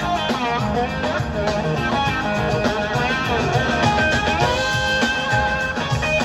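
Live band music: an instrumental break with a lead guitar line of bending, gliding notes over the full band.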